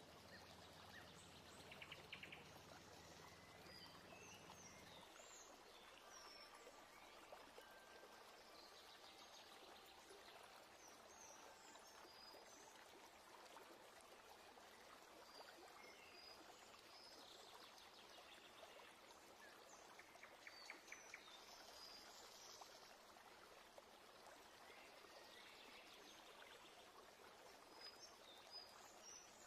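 Near silence: faint outdoor ambience of small birds chirping and twittering over a soft steady hiss, with short fast trills about two seconds in and again about twenty seconds in. A low hum cuts off about five seconds in.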